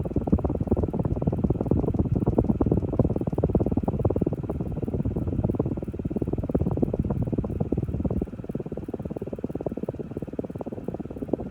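Monte Carlo Micro 24-inch ceiling fan running, its draught buffeting the microphone: a dense crackling rumble that eases a little about eight seconds in.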